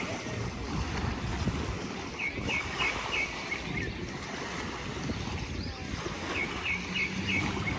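Wind buffeting the microphone over the wash of sea surf at a beach, with two short runs of four or five high chirps, about two seconds in and again near the end.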